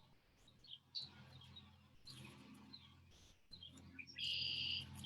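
Wild birds chirping faintly in short, scattered calls, with one louder, buzzy call lasting about half a second near the end.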